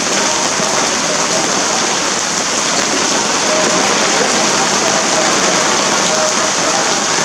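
Steady heavy rainfall, an even hiss of rain hitting surfaces with no breaks.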